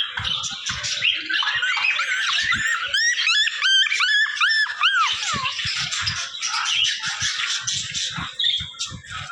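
Many small birds chirping and chattering over one another. About three seconds in, a run of clear, repeated rise-and-fall whistled calls stands out for a couple of seconds, and light knocks sound here and there.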